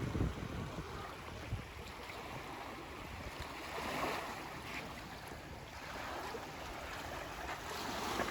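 Small waves washing onto a sandy beach, surging about four seconds in and again near the end, with wind buffeting the microphone.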